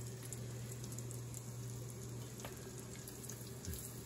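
Floured chicken breasts frying in olive oil and butter in a stainless steel sauté pan: a steady sizzle with faint scattered crackles. A low steady hum runs underneath.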